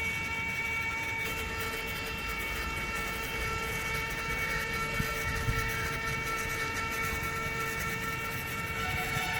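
A small motor running steadily with a constant-pitch whine over a low rumble, with a couple of light knocks about five seconds in.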